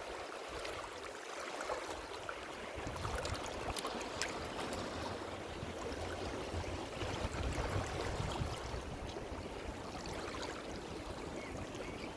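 Ocean waves washing on a shore: a steady hiss of surf with a fine crackle in it. The low rumble eases for the first couple of seconds, then comes back.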